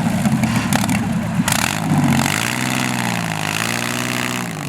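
Tractor engine running, its revs dipping and then climbing again over the last couple of seconds.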